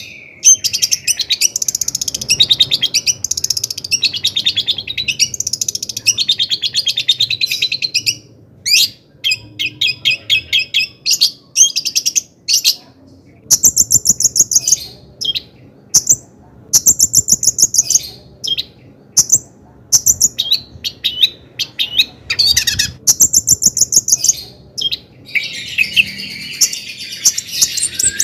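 Long-tailed shrike singing in rapid, high, chattering phrases of one to a few seconds, broken by short pauses. Near the end it runs into a denser, scratchier stretch.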